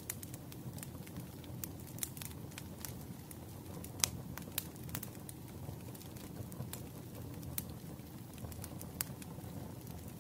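Wood fire crackling: a steady low rumble with irregular sharp pops and snaps, the loudest pop about four seconds in.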